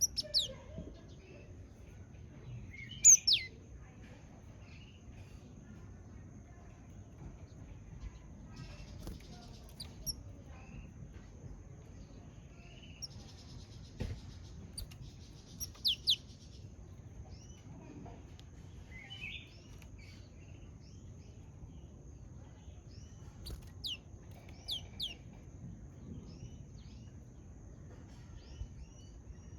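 Japanese tit giving scattered sharp, high chirps that sweep downward in pitch, a few loud ones, the loudest about three seconds in and again near the middle, with many fainter short calls between. A faint steady high whine runs underneath.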